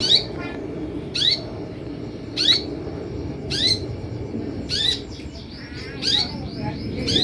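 Kolibri ninja sunbird calling: a sharp, rising chirp repeated about every second and a quarter, with softer, faster twittering between calls near the end. The calls sit over a steady low rumble.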